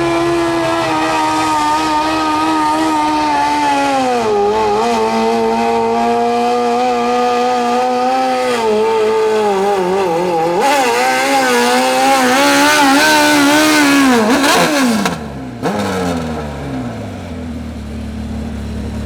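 Suzuki 1200 motorcycle engine in a modified lawn pulling tractor running at high revs under load during a pull. Its pitch dips about four seconds in and climbs again, then falls sharply about fifteen seconds in as the throttle comes off, and the engine winds down to a low idle.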